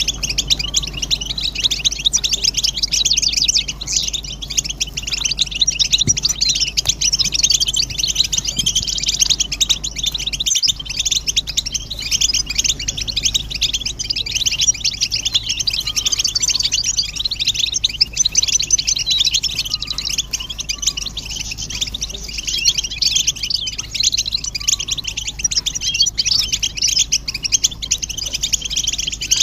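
European goldfinches chattering and twittering together in a dense, unbroken chorus of rapid high chirps: excited mating and readiness calls used to set male goldfinches singing.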